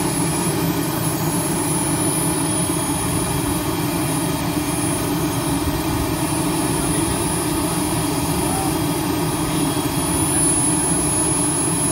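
Steady running noise of a model jet turbine engine, holding level without revving up or down.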